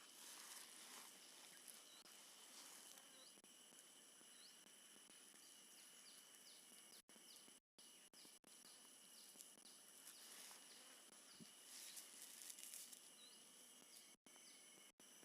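Faint outdoor ambience: steady high insect trilling over a soft even hiss, with a few short high chirps. The sound cuts out completely for brief moments several times, around the middle and near the end.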